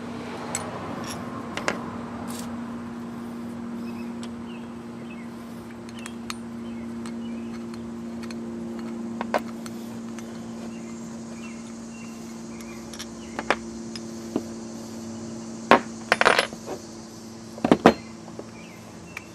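Small metal parts (bolts, clamps and mounting hardware) being handled, giving scattered sharp clicks and clinks with a louder cluster near the end, over a steady low hum.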